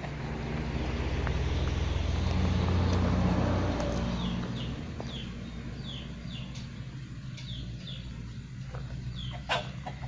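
A vehicle engine rumbling, swelling to its loudest about three seconds in and fading by about four seconds. Over the second half come repeated short, falling bird chirps, with a single sharp click near the end.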